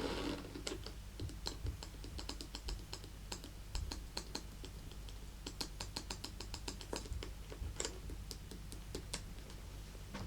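Fingernails tapping on a handbag: quick, irregular light clicks, several a second, with short pauses.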